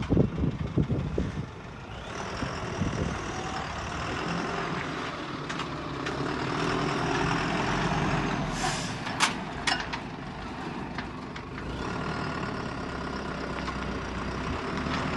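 Iveco Eurocargo truck running steadily, with a few loud knocks in the first second or so and a brief cluster of sharp clicks about two-thirds of the way through.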